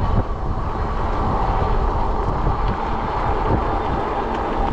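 Ride noise on a fat-tire electric bike: wind rushing over the microphone and the tires rumbling on the pavement, with a faint steady whine from the electric motor.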